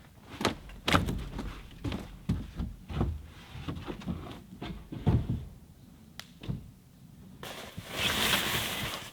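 A series of knocks and thuds, a dozen or so spread unevenly, then a steady rustling hiss from about seven and a half seconds in.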